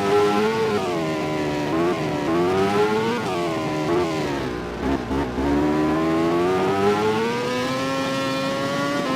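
MotoGP racing motorcycle's 1000 cc four-stroke engine at full race revs, its pitch climbing and dropping sharply about once a second with gear changes. About halfway the note falls away and stutters under braking and downshifts, then climbs in one long steady pull as the bike accelerates again.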